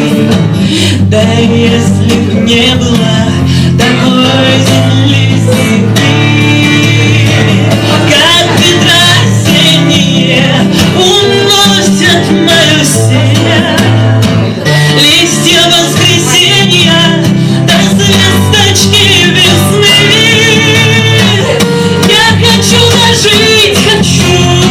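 Live song: a woman singing over a strummed guitar.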